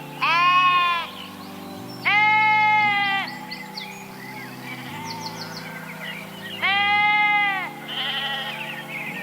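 Three long bleats from a sheep or goat-type farm animal, each rising and then falling in pitch, with a fainter shorter bleat near the end. Steady background music chords run underneath.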